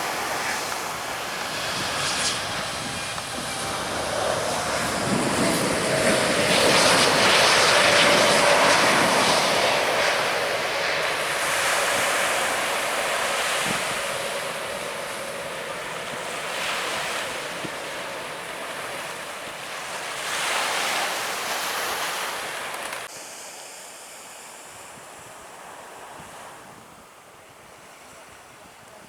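Jet airliner passing overhead, its engine whine falling in pitch and loudest about eight seconds in, over the steady wash of surf breaking on the beach.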